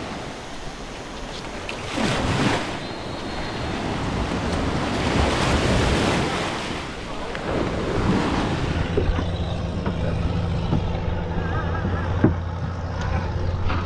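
Surf washing onto the beach in slow swells, with wind buffeting the microphone. About nine seconds in the wash gives way to a steady low hum.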